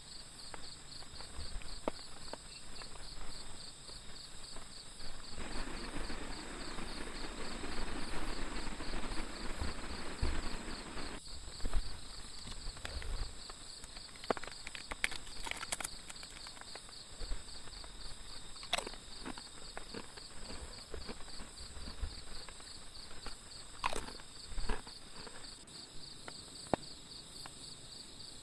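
Insects calling steadily in a fast pulsing trill, with scattered clicks and knocks of someone moving and handling things. A rushing noise comes in about five seconds in and stops abruptly about six seconds later.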